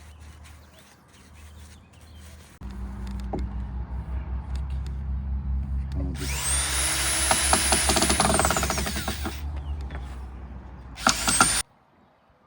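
Electric drill driving a screw into wood. The motor starts slowly, runs up to a high whine that holds for a few seconds and winds down, then gives a short final burst that stops suddenly as the screw seats.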